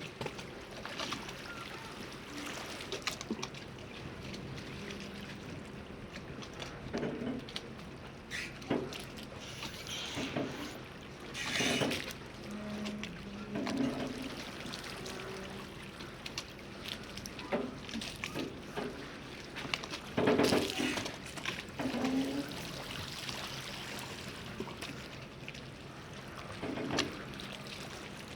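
Harbour water lapping and sloshing, with irregular splashes every few seconds, the loudest about twelve and twenty seconds in, over a faint steady low hum.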